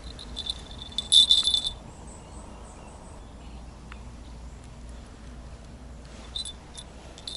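A short, loud, high-pitched rattle about a second in, lasting under a second. Two fainter, briefer rattles come near the end.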